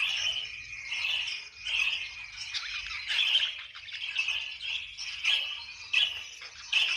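A flock of budgerigars chattering and chirping, a continuous warbling chatter with sharper squawks about once a second.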